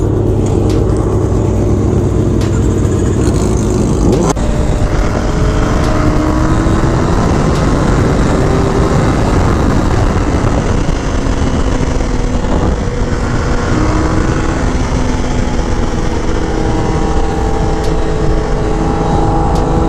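Motorcycle engine running under way, its pitch rising and falling with throttle and gear changes, over a steady rush of wind noise.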